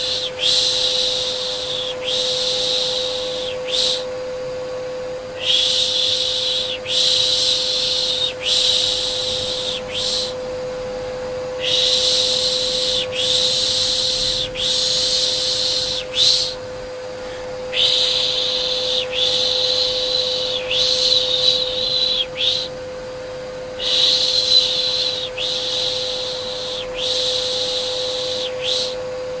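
Repeated 'pşş pşş' shushing in runs of four or five hisses, each run lasting a few seconds with a short pause before the next. Under it runs a steady electric vacuum cleaner hum: a white-noise lull for settling a baby.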